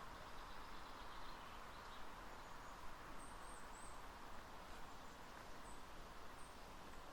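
Faint outdoor ambience: a steady even hiss with a few short, high bird chirps in the middle and latter part.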